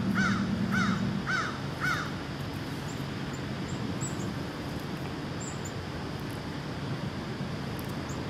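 A bird calling outdoors: a quick run of about four arched calls, half a second apart, in the first two seconds, then a steady low hum carries on.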